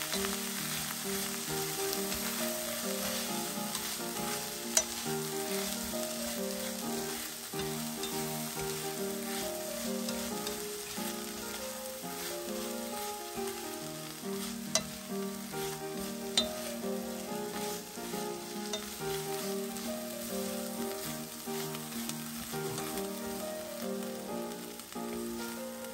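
Sauce-coated shredded dried filefish sizzling as it is stir-fried in a nonstick frying pan, the final stage with the sauce added over low heat. Wooden chopsticks tap sharply against the pan three times, once about five seconds in and twice in close succession past the middle.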